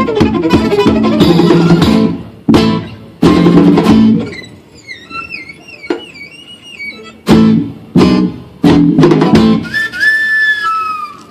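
Band playing live: acoustic guitar chords struck in sharp stop-start hits. A high warbling melody fills the gap between them, and sliding high notes come near the end.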